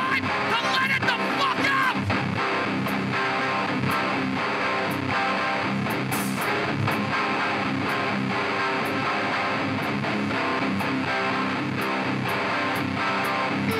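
Live hardcore band playing a song: distorted electric guitars strummed hard over drums and cymbals.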